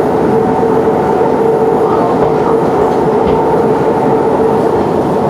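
Siemens C651 metro train running at a steady pace: a loud, even rumble of wheels on rail with a steady motor hum that holds one pitch.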